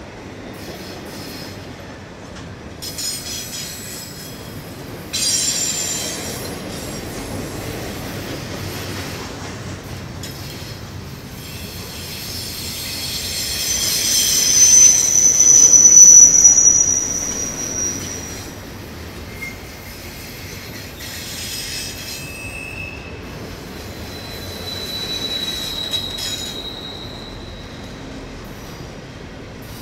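Double-stack intermodal freight train rolling past, its cars rumbling and clattering steadily. High-pitched steel wheel squeal rises to its loudest about halfway through, then returns more faintly a few times near the end.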